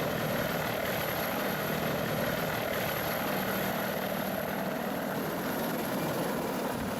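Attack helicopter's turbine engines running steadily, with a thin high-pitched whine over a low hum.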